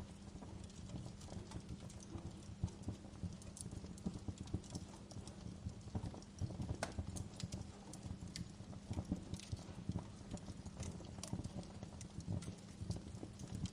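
Wood fire in a fireplace crackling, with frequent irregular pops and snaps over a low steady rumble.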